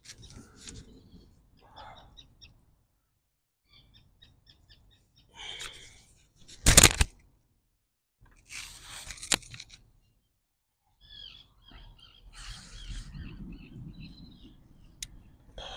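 Small birds chirping in quick series of short high notes, over bursts of rustling and handling noise, with one sharp, loud knock about seven seconds in.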